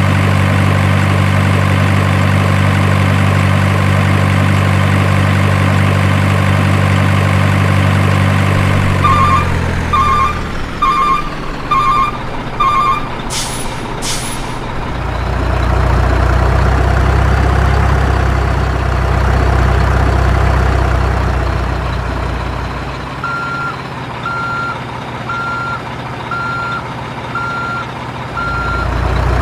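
A truck engine idles steadily, then its note drops about nine seconds in while a reversing alarm gives a run of quick beeps. A short hiss of air follows, then a low engine rumble, and from about two-thirds of the way through a slower reversing alarm beeps steadily.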